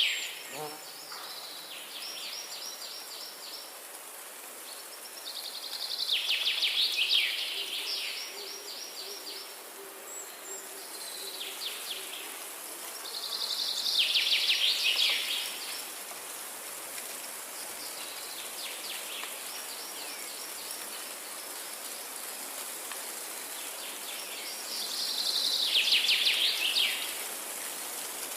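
Forest ambience: a songbird sings a rapid, buzzy trill of a second or two, repeating every few seconds, with the loudest songs about six, fourteen and twenty-six seconds in and fainter ones between. A steady high hiss, from insects or distant water, runs underneath.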